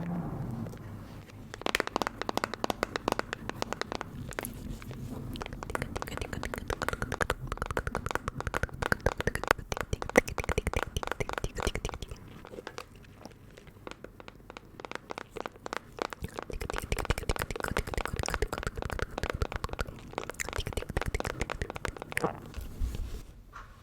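Close-miked ASMR trigger sounds: a dense run of small crackling, crinkling clicks, easing off about halfway through and thinning near the end.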